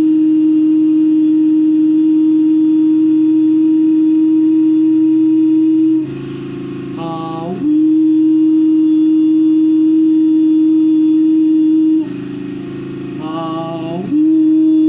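A voice humming long held notes. Each note slides up into one steady pitch and holds for about four and a half seconds, with a breath drawn between notes, twice.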